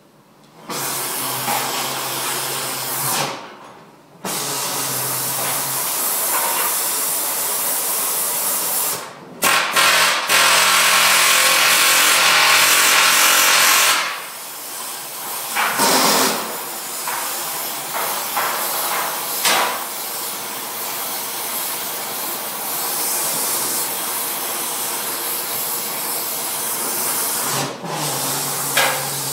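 Steady, loud hissing from a workshop tool at work on a steel chassis. It cuts out briefly a couple of times, and is loudest for a few seconds in the middle before settling back.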